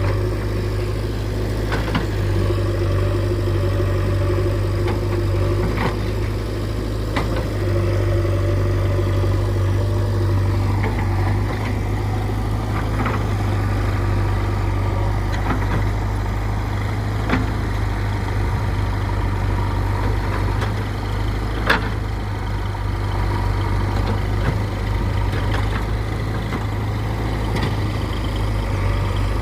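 Heavy diesel engine of earth-moving machinery running steadily with a low hum, with scattered sharp knocks and clanks, one of them louder about three-quarters of the way through.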